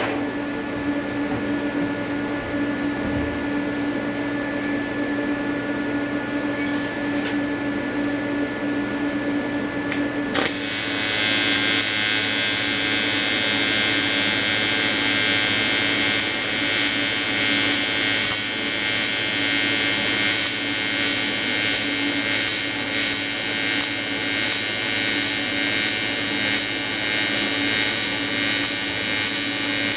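AC square-wave TIG welding arc from an Everlast 325EXT buzzing steadily on aluminium. About ten seconds in the buzz becomes louder and harsher, with a bright hiss added.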